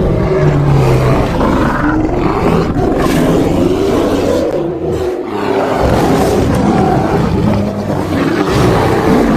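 Layered bear growls and roars for a creature sound effect, mixed from grizzly, black bear and polar bear recordings. The sound is loud and rough and runs almost without a break, easing briefly about five seconds in.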